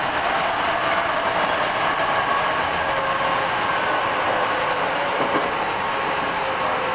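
Hankyu 5300 series electric train running on the rails: a steady rumble of wheels on track with a motor and gear whine that slowly falls in pitch as the train slows.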